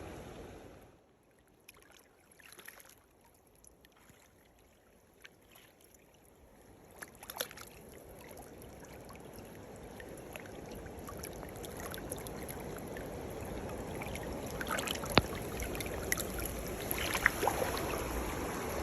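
Mountain-stream water running, steady rushing noise that swells gradually louder from about six seconds on, with a few sharp clicks and knocks scattered through it.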